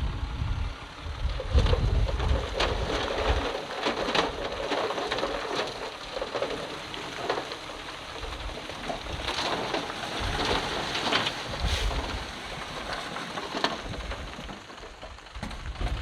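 Loose stone and soil sliding and tumbling: a steady rattling hiss with many small knocks and uneven low rumbles.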